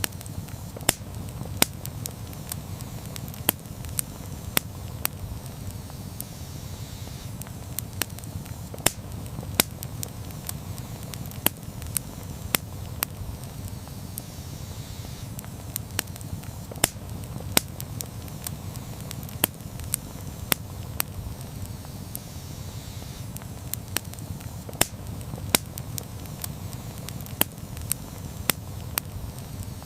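Campfire crackling, with sharp irregular pops, about one or two a second, over a steady low rumble of the flames.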